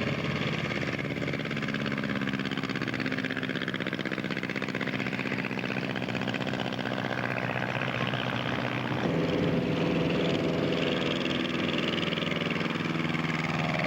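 Piston aircraft engine running steadily, its note changing about nine seconds in.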